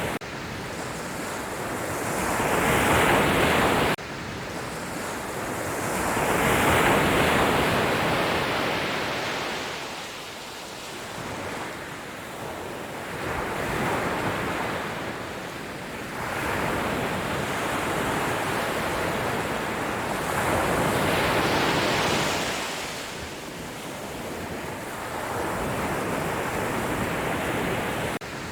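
Sea waves breaking on the shore and washing back, the surf swelling and fading every few seconds. The sound drops suddenly about four seconds in and again near the end.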